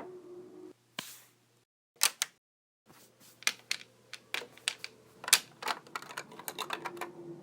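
Plastic Lego bricks clicking and snapping together: one click about a second in, a quick pair at about two seconds, then a run of irregular clicks from about three seconds on.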